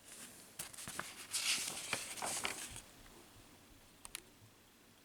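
Paper rustling and handling clicks as the fan's instruction booklet is moved and its pages turned, lasting about three seconds, then a couple of faint taps.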